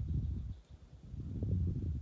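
Wind buffeting a phone microphone: two gusts of low rumbling, the second about a second in.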